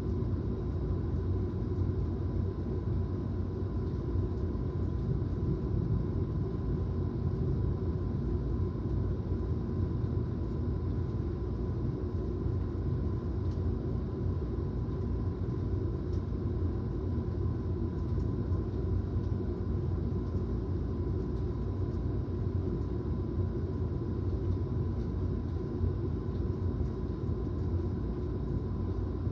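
A steady low rumbling noise with no change in level, and a faint constant whine riding above it.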